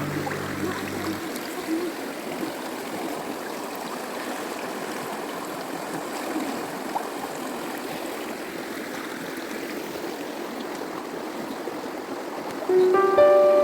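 Water of a stream flowing and rushing steadily. Music fades out about a second in and comes back near the end.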